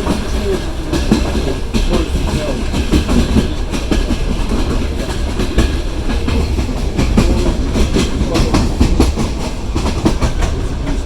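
Passenger train running along the line, heard from aboard the carriage: a steady low rumble with the wheels clattering irregularly over rail joints.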